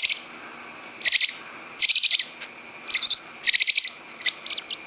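A baby bird, taken for a young robin, gives begging calls while being hand-fed: about six short bouts of rapid, high-pitched chirping.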